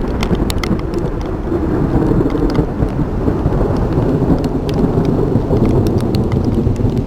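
Rolling thunder rumbling low through the sound of steady rain, swelling in the middle. Sharp ticks of raindrops strike close by throughout.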